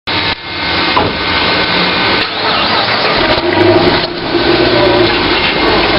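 Loud car engine noise running throughout, with brief dips in level about every two seconds.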